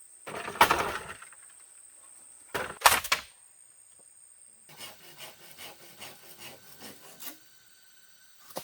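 Wood being worked by hand: two long scraping strokes, then a run of short rasping strokes about three a second, and a sharp click at the very end.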